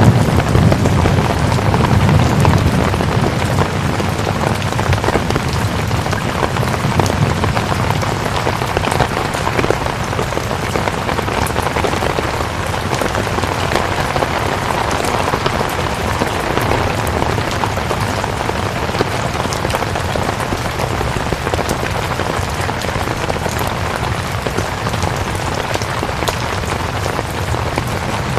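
Steady rain, a dense even hiss of drops, with a low rumble that fades out over the first few seconds.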